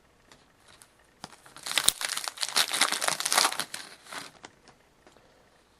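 A pack of hockey cards being torn open, its wrapper crinkling and crackling for about three seconds, starting a little over a second in.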